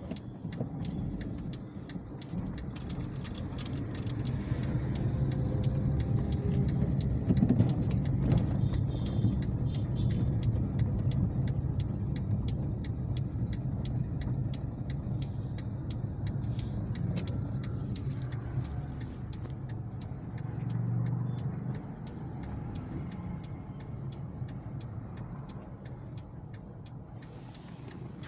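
A motor vehicle running with a steady low rumble, swelling a few seconds in and easing off later, with scattered short clicks over it.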